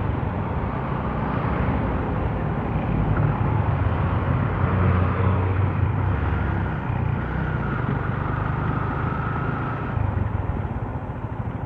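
Motorcycle engine running steadily under way, with road and wind noise, picked up through an action camera's microphone. The sound eases slightly near the end.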